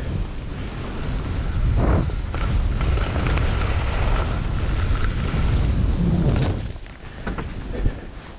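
Wind rushing and buffeting the action camera's microphone during a ski run, a loud steady rumble that falls away sharply near the end as the skier slows.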